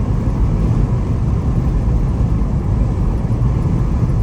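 Steady low rumble of a Jeep on the move, with engine and tyre noise heard from inside the cabin.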